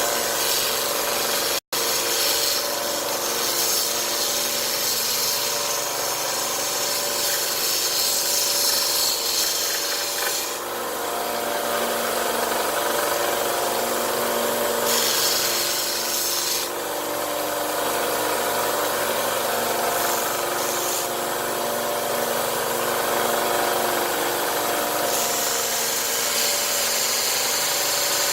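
Central Machinery 1-inch by 30-inch belt sander running steadily, a little loud, with very rough sandpaper on the belt. A gritty rasp of wood being sanded swells and fades several times as the piece is pressed on and eased off.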